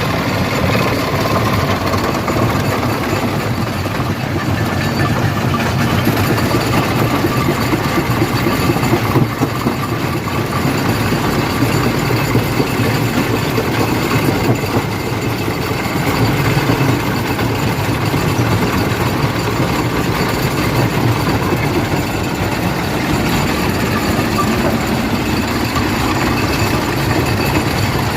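Industrial rock crusher running while crushing stone: a continuous heavy rumble thick with rattling and knocking of rock, with a few louder knocks around nine seconds in.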